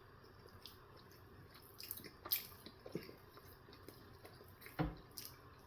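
A few short, wet mouth clicks and smacks from slow chewing close to the microphone, with one louder, low knock near the end.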